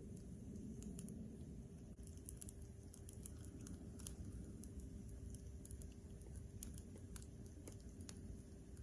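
Campfire crackling: irregular small pops and snaps, a few a second, over a low rumble, with a faint steady hum underneath.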